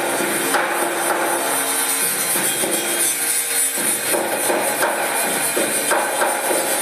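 Steady rasping, scraping tool noise of metalworking, a tool cutting or grinding without a break.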